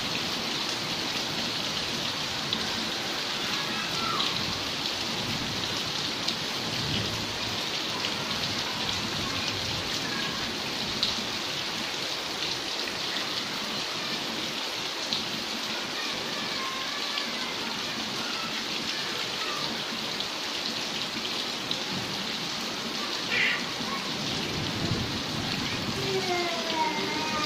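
Steady heavy rain pattering down on a flooded yard and on glass louvre windows. A few short whistle-like chirps come through, with a falling run of them near the end, and there are brief low rumbles twice.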